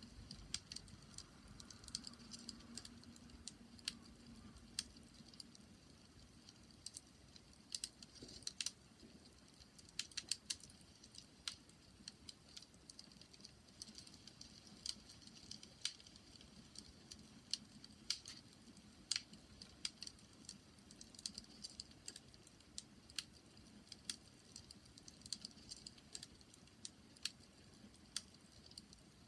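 Bonfire crackling: irregular sharp snaps and pops, some in quick clusters, over a faint low rush of the flames.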